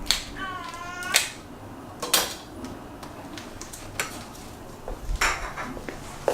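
Dishes and cutlery clinking and knocking: several separate sharp clinks, roughly a second apart.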